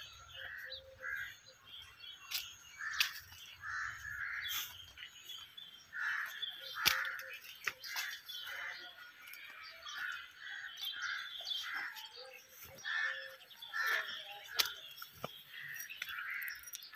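Birds calling: many short calls repeated every second or so, with a few sharp clicks in between.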